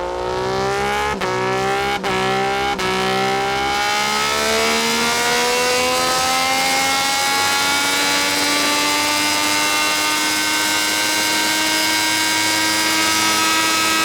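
Moto2 Triumph 765 three-cylinder engine running at full throttle through an SC-Project CR-T 3-1 full exhaust on a dyno. The revs are cut briefly three times in the first three seconds, then climb slowly and steadily in one long pull.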